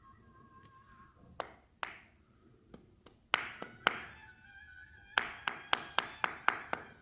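A series of sharp taps or knocks: a few spaced about half a second apart, then a quick run of about seven near the end, over faint background music.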